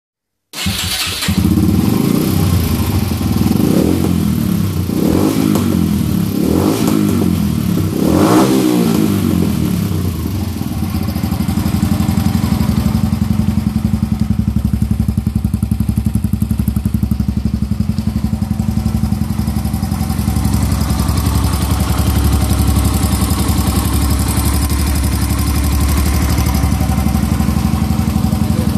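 Yamaha XT 125 R's single-cylinder four-stroke engine, breathing through a Turbo Kit aftermarket exhaust with the dB-killer baffle removed. It is blipped in several short revs over the first nine seconds, then settles into a steady idle.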